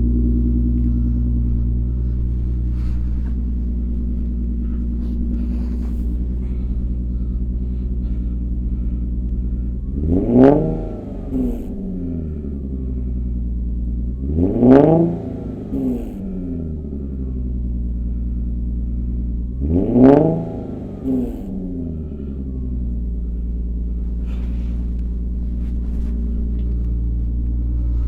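2011 Infiniti G37S's 3.7-litre V6 idling at about 1200 rpm while still cool after a cold start, through a Motordyne exhaust with Fast Intentions resonated high-flow cats. It is blipped three times to around 2500–3000 rpm, each rev climbing sharply and dropping straight back to idle.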